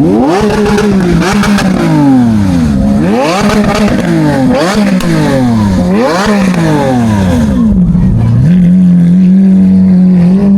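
An idling vehicle engine is revved hard about four times, its pitch climbing and falling with each rev, then settles back to a steady idle about eight seconds in.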